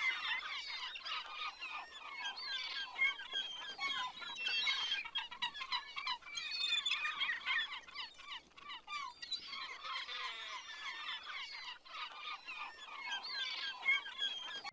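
Many birds chirping and twittering at once, a dense overlapping chorus of short quick calls that keeps up throughout.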